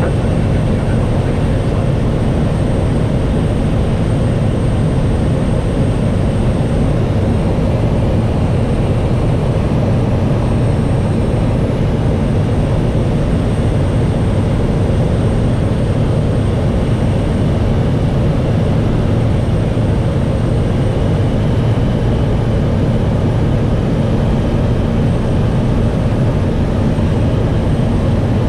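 Aircraft engine and propeller drone, loud and steady with no change in pitch.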